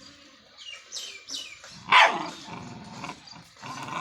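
Dog barking, several times, loudest about two seconds in.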